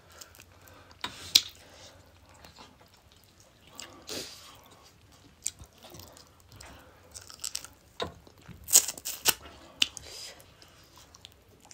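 Close-up chewing of curry and rice eaten by hand, with scattered sharp crisp crunches and clicks, loudest about a second in and again around nine seconds.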